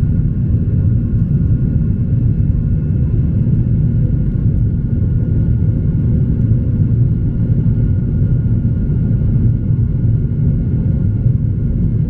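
Boeing 737-800 cabin noise in flight shortly after takeoff: a steady, deep rumble of airflow and CFM56 engines heard from inside the cabin, with faint steady whining tones above it.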